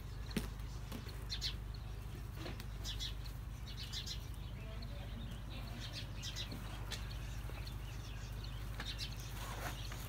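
Scattered short bird chirps over a steady low hum, with one brief click near the start.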